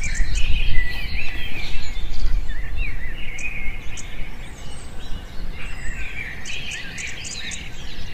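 Small birds chirping repeatedly in quick, sweeping calls, busiest in the first few seconds and again near the end, over a steady low rumble.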